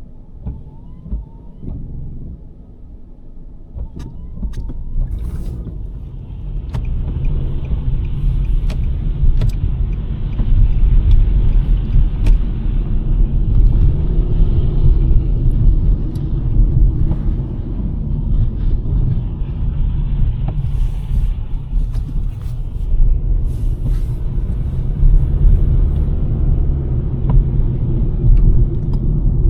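A 2023 Nissan Sentra driving on a snowy road, its tyre and road rumble growing louder over the first ten seconds and then holding steady. Scattered sharp ticks sound throughout.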